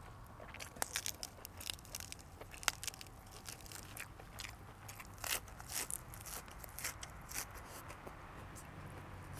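A person chewing and biting crunchy food close to the microphone, with irregular crisp crunches and wet mouth clicks. The sharpest snaps come about one and three seconds in, with a dense run of crunching midway.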